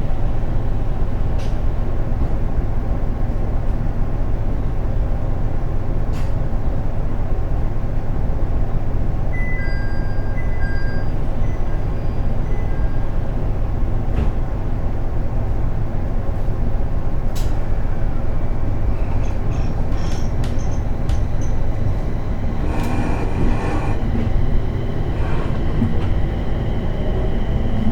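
Inside a 701 series electric train car standing at a station: a steady low hum from the car's onboard equipment. A short stretch of clattering noise comes about 23 seconds in.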